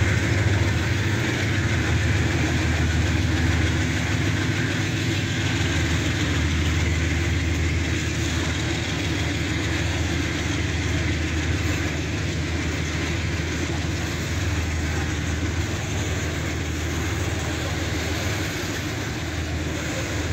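Freight train of hopper wagons rolling past close by: a steady rumble of steel wheels on the rails that slowly gets quieter.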